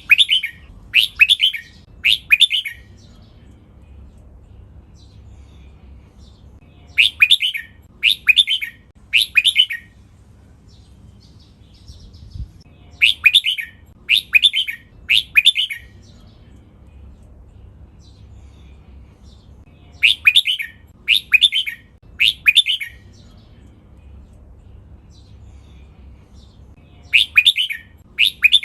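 Red-whiskered bulbul singing loud song phrases in sets of three, each set about two seconds long and repeating roughly every six to seven seconds. This is the counted, repeated song style that Thai bulbul keepers call "double 23" and use as a training song.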